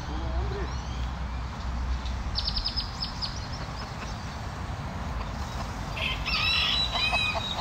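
Birds chirping outdoors: a quick run of high chirps a couple of seconds in, then another cluster of calls near the end, over a steady low rumble.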